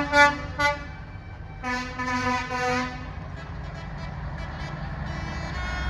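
Vehicle horns tooting in short blasts, two quick toots right at the start and three more about two seconds in, over the steady low rumble of passing lorry and tractor engines.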